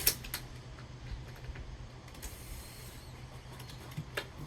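Small mechanical clicks and rattles of a hand tool on hardware as a screw on the door-slide bracket is tightened, loudest in a few sharp clicks at the start, over a faint steady hum.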